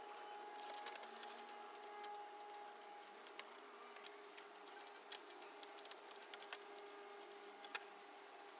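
Faint room tone with a steady low hum, broken by scattered small clicks and ticks, the sharpest near the end.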